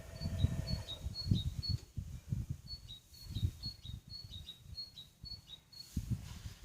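Privileg Sensation 9245 washing machine running, with irregular low rumbles and thumps from the drum turning the laundry. Over it comes a high two-note chirping, repeated in two runs.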